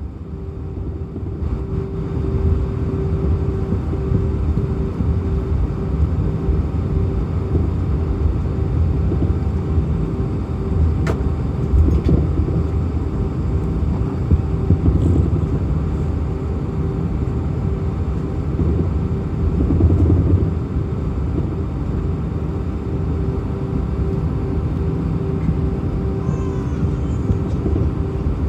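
Inside an Airbus A319's cabin, the jet engines run with a steady drone over a low rumble, growing louder over the first couple of seconds.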